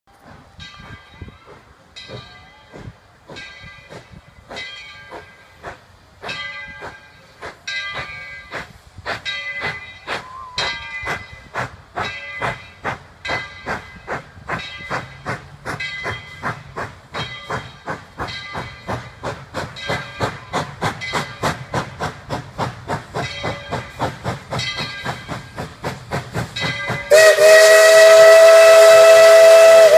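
Tweetsie Railroad #12, a narrow-gauge 4-6-0 steam locomotive, pulling away: its exhaust chuffs come faster and faster as it gathers speed. Near the end its steam whistle blows a loud, steady chord of several tones.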